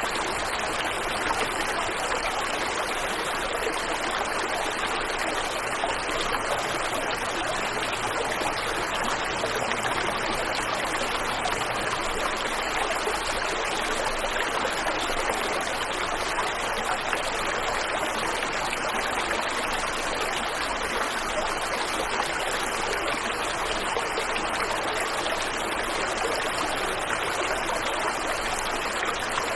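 Waterfall and river water rushing in a steady, even flow.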